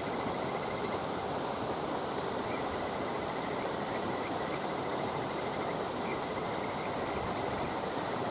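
A steady rushing noise with an insect trilling fast and continuously over it.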